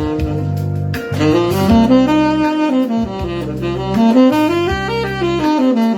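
Saxophone playing quick pentatonic scale runs that climb and fall in repeated arcs, over a backing track with a bass line.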